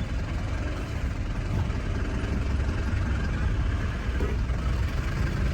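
Vehicle engines running, a steady low rumble.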